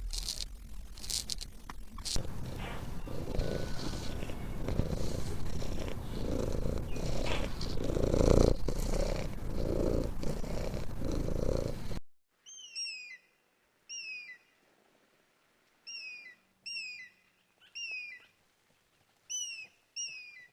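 Domestic cat purring: a rough, rumbling purr that swells and fades in a slow rhythm with its breathing for about twelve seconds. It then cuts off to a run of short, high chirps, each sweeping down in pitch, coming in twos and threes.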